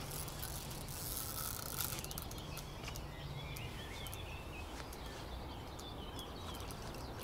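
Songbird chirping and warbling in short phrases over a steady outdoor background noise with a low rumble, and a few faint clicks.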